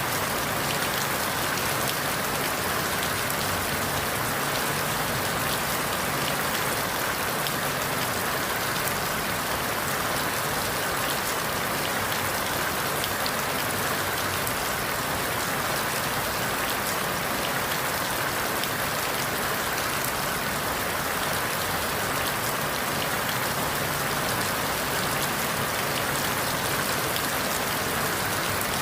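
Steady rain falling through forest leaves, an even hiss with no let-up.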